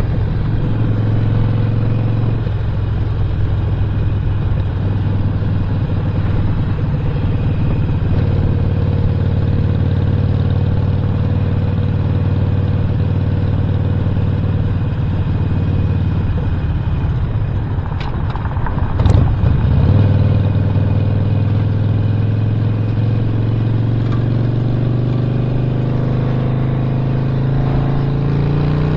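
Stage 1 Harley-Davidson Roadster's air-cooled 1200 cc V-twin running steadily under way. About two-thirds of the way through there is a sharp click and a brief change in the engine note, then the engine pulls and its pitch slowly rises.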